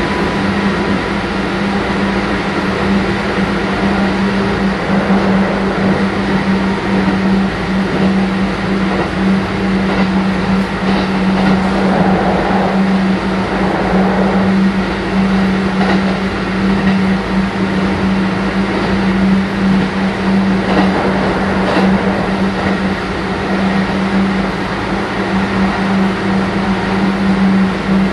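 Kintetsu 1420 series electric train running between stations, heard from on board: a steady hum over an even rolling rumble, with a few faint clicks in the middle.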